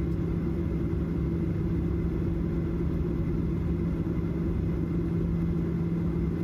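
Steady low rumble and hum inside a Boeing 737-800 cabin on the ground after landing, with a constant low drone.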